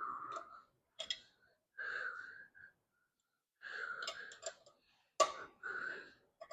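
A man breathing hard in short, separate puffs while straining at heavy work, with a couple of sharp metallic clicks near the end.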